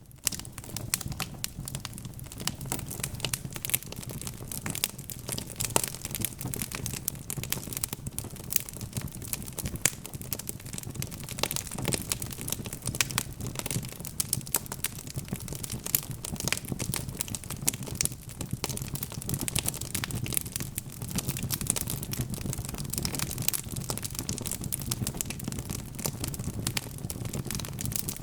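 Wood fire crackling with dense, irregular pops and snaps over a low, steady rumble.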